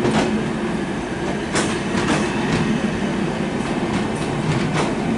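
Bangladesh Railway Chitra Express intercity passenger coaches rolling past at close range: a steady rolling rumble with sharp clacks at uneven intervals as the wheels cross rail joints.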